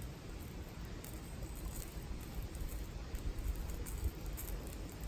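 Wood and charcoal fire crackling with scattered faint pops, over a steady low rumble of wind on the microphone.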